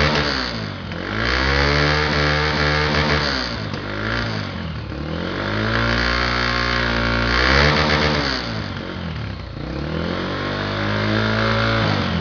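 Honda CB300's single-cylinder four-stroke engine revved through an aftermarket sport exhaust tip. The revs climb, hold for a second or two and drop back, about four times, with a short blip about four seconds in.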